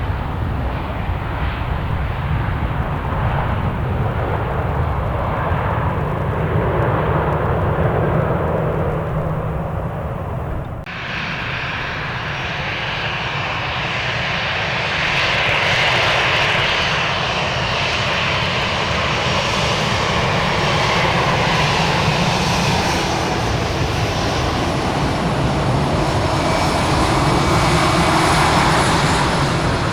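Airliner engines at close range: a low, steady rumble, then an abrupt change about eleven seconds in to a louder, higher whine and rush from another aircraft. That sound swells twice.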